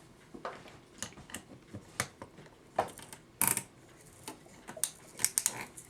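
Irregular metallic clicking of a Sessions kitchen clock movement's ratchet as the freshly greased mainspring is wound by hand, some clicks coming in quick runs.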